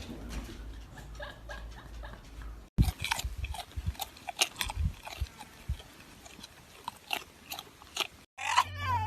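A pet chewing something crunchy: after a stretch of low steady hum with faint clicks, a run of irregular crisp crunches and clicks starts about a third of the way in.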